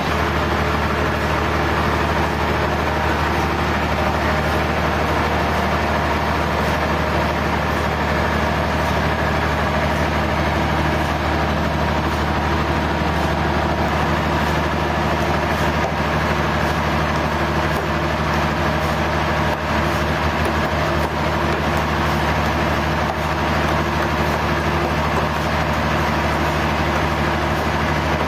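Sawmill machinery running steadily: a constant engine-like hum with a wide even noise over it, unchanging throughout.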